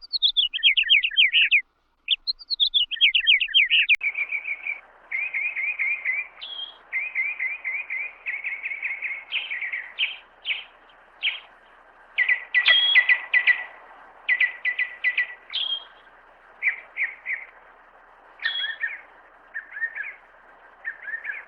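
Stock cartoon bird-chirp sound effects. First comes a rapid run of falling, trilled chirps over a clean silent background; about four seconds in it switches to a second recording of short, repeated chirp phrases over a faint hiss.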